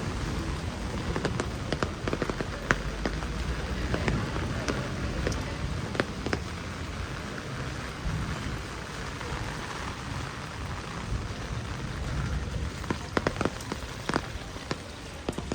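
Heavy rain falling steadily, with many single drops ticking sharply close by.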